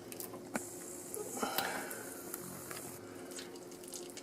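Hot electric uncapping plate held on capped honeycomb, melting and breaking the wax cappings with faint sizzling and squishing and a few light clicks.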